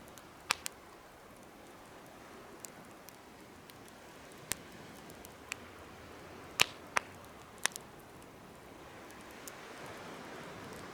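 Wood fire crackling in a homemade fire pit: scattered sharp pops and snaps, the loudest about six and a half seconds in, over a soft steady hiss of burning.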